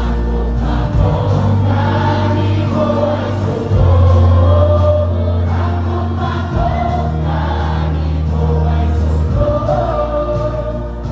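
Music: a group of voices singing a song over a sustained bass line that shifts to a new note about every three seconds.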